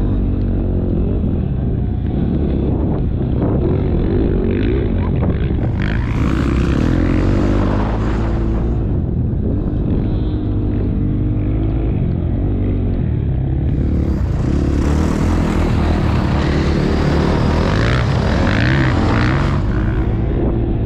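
KTM motocross bike engine revving up and down as it is ridden around the track, heard from an onboard GoPro. Twice a long rush of hissy wind noise swells over the engine, once about a third of the way in and again through most of the second half.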